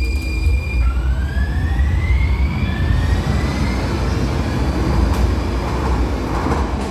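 Muni Metro Siemens light rail car pulling out of the underground station: a steady low rumble with the drive motors' whine rising in pitch as it picks up speed.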